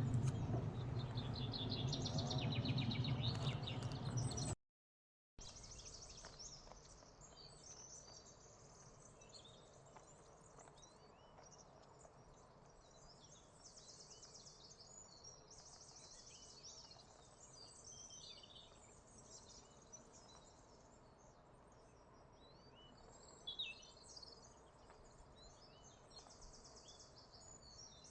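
Faint outdoor ambience of birds chirping and calling, with repeated high buzzy trills. For the first few seconds a louder low rumble runs under a bird's warbling song; a brief dropout follows.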